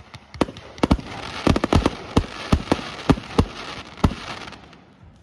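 Fireworks display: a quick series of sharp bangs from bursting fireworks, about a dozen in four seconds, with a crackling hiss between them that dies away near the end.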